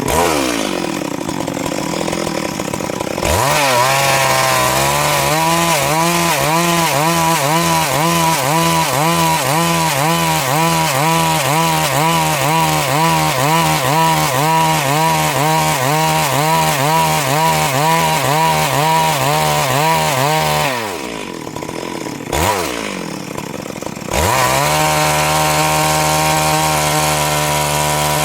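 Stihl MS 382 two-stroke chainsaw, coming down to idle, then revving up about three seconds in and running at high revs with a wavering pitch for about seventeen seconds as it rips through a Siris log. It drops back to idle with a brief blip of the throttle, then revs up for another cut for a few seconds and drops off at the very end.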